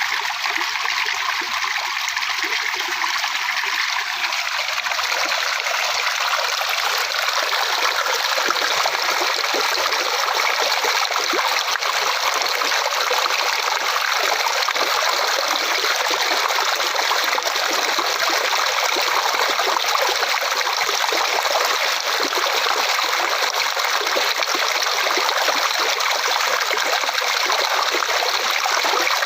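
Flowing water trickling and splashing steadily, like a small stream.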